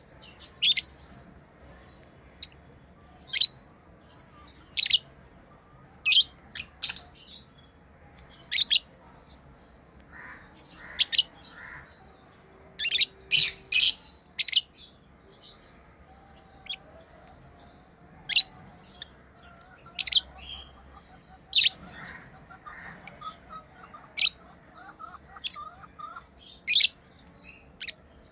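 Pet lovebirds chirping: short, sharp, shrill calls about once a second, with quieter chattering between them in the second half.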